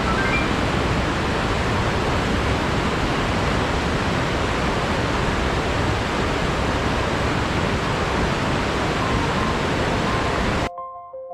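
A steady, even rush of water, with the tail of a rising run of soft music notes at the start. The rush cuts off suddenly near the end, leaving soft piano notes.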